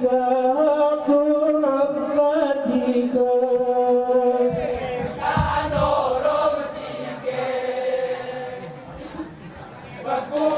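A group of men chanting Saman verse in unison, holding a high sustained vocal line. About halfway through the chant turns rougher and more crowded, then fades back before the voices swell again near the end.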